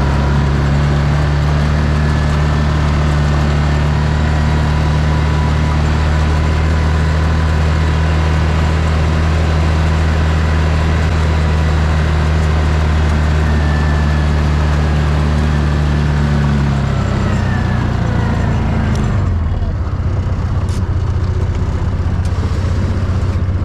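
A vehicle engine runs steadily while driving. About 17 seconds in, its note drops in steps as the vehicle slows to a stop.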